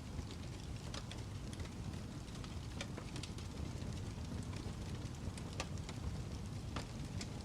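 Wood fire crackling: a low steady rumble with irregular small pops and crackles.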